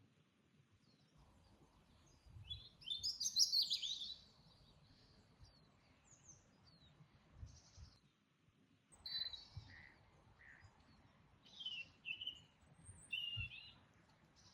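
Wild birds singing and chirping in a garden: a loud run of quick descending notes about three seconds in, then several shorter chirps and phrases later on, over a faint background hush.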